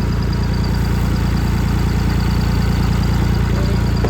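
Tractor engine running steadily with a low, even drone, powering the PTO-driven drain sprayer.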